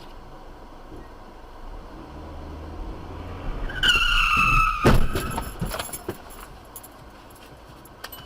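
Car crash: a high-pitched screech for about a second ends in a sharp, loud impact about five seconds in, followed by scattered clicking and tinkling of debris.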